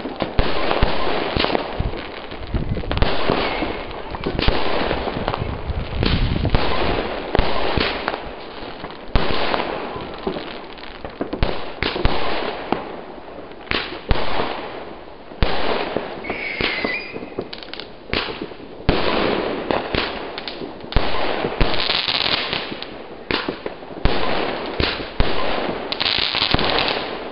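New Year's Eve fireworks going off nearby: a dense, irregular run of firecracker and rocket bangs, several a second, with crackling in between. A short wavering whistle comes about midway.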